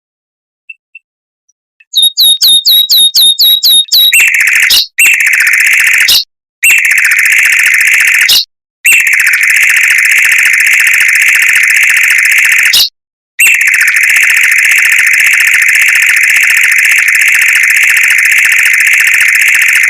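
Mockingbird singing a fast, tight trill. After about two seconds of silence come about ten quick repeated chirps, then long rapid trills broken by a few short gaps, the last running unbroken for about six seconds.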